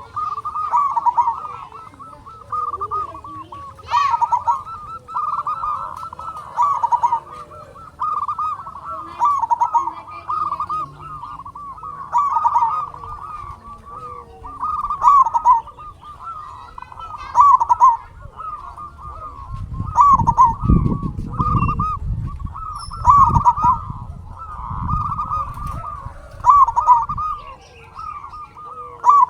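Zebra dove (perkutut) cooing over and over: short trilling phrases about every two to three seconds. A low rumble comes in around two-thirds of the way through.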